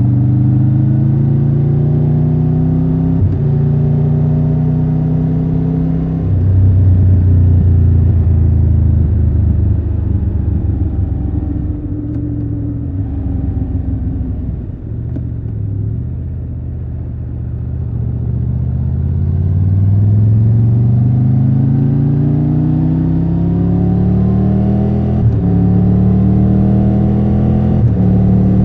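Triumph Tiger 1200 Rally Pro's three-cylinder engine pulling through the gears. The pitch climbs and then drops at each upshift, sinks as the bike slows about halfway through, then climbs again with two more upshifts near the end.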